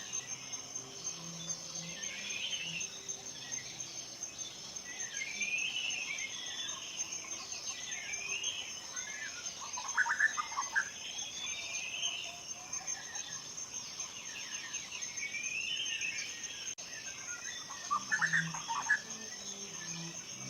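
Forest ambience: songbirds singing short rising-and-falling phrases every few seconds over a steady, high, pulsing insect trill like a cricket's. Two louder, sharper bird calls come about halfway through and near the end.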